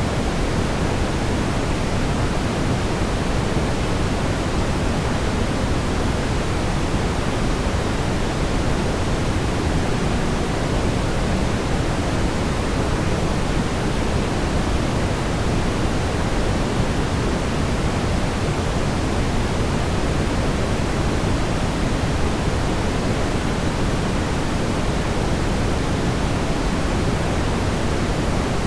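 Steady brown noise: an even, deep rumbling hiss with most of its weight in the bass, unchanging throughout.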